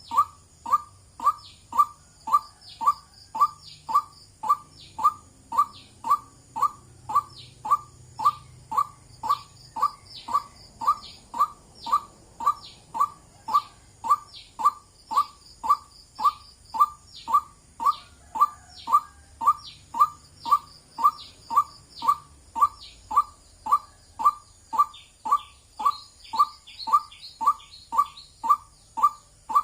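White-breasted waterhen calling its monotonous 'wak' note over and over, evenly, about twice a second.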